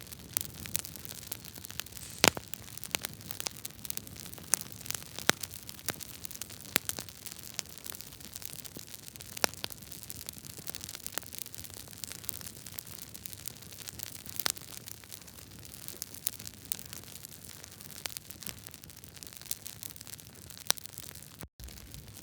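Wood fire of burning logs in a fireplace crackling, with frequent irregular sharp pops and snaps over a steady hiss. The sound cuts out for an instant near the end.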